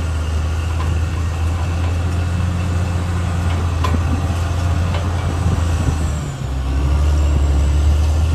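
CAT D6R XL bulldozer's diesel engine running with a steady low drone; the sound dips briefly about six seconds in, then comes back louder. A light clank is heard about four seconds in.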